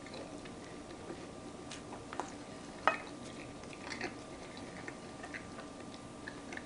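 A person chewing a bite of toast with a hard-fried duck egg, mouth closed: faint, irregular wet clicks and smacks, the sharpest about three seconds in.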